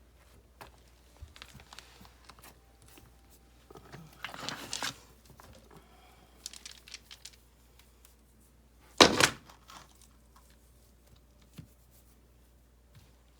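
Rocks and mortar being worked by hand: scattered light clicks, a rasping scrape about four seconds in, and one sharp knock of stone about nine seconds in, the loudest sound.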